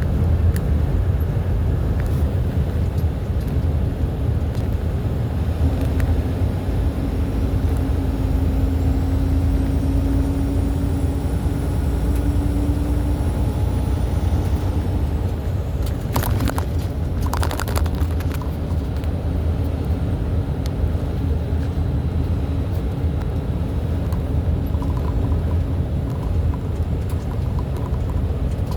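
Steady low rumble of a vehicle running down the road, with a faint steady hum through the middle and a brief rattle of clicks a little past halfway.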